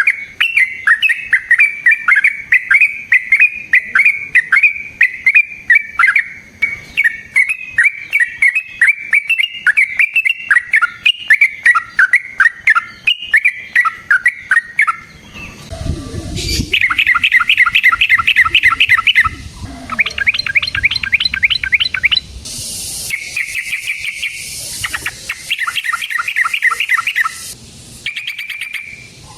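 Yellow-vented bulbul song: about fifteen seconds of rapid, continuous warbling notes, then a run of fast, even chattering rattles broken by short pauses, with a brief low rumble just before the first rattle.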